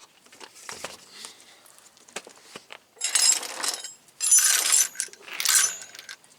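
Loose metal hardware jangling and clinking in three loud bursts about three, four and five seconds in, after a few faint clicks.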